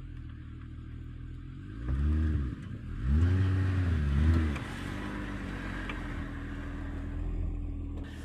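Car engine idling, then revved three times as the car is driven out of deep snow: once about two seconds in, then twice in quick succession, before settling back to a steady idle.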